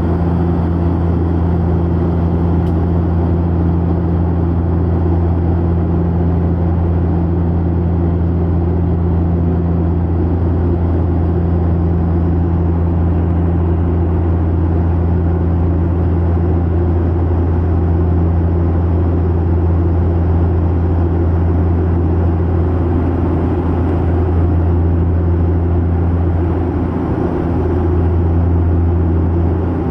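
Steady, loud drone of an aircraft's engines heard from inside the cabin in flight, with a slight dip near the end.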